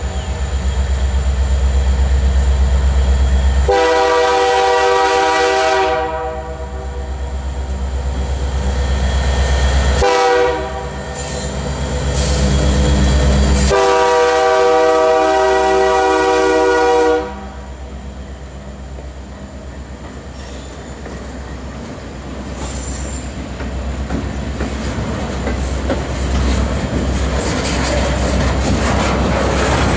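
EMD diesel locomotive passing with its engine rumbling heavily, and its multi-note air horn sounding long, short, long, the close of a grade-crossing signal. After that the rail cars roll by, their wheels clattering on the rails and growing louder toward the end.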